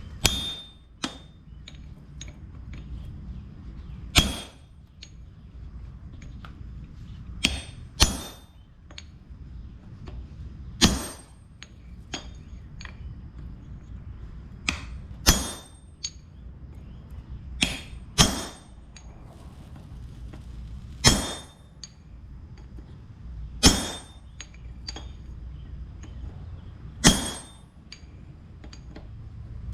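Hand hammer striking a hot railroad spike on an anvil. About a dozen heavy blows ring out at uneven intervals of one to three seconds, with lighter taps between them.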